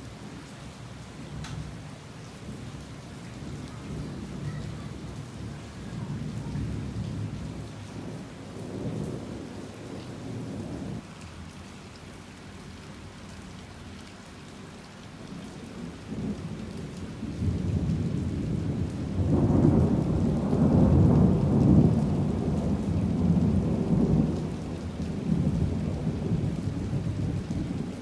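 Heavy rain falling steadily with rolling thunder: low, uneven rumbles through the first half, then a long, louder peal of thunder building past the middle and easing off near the end.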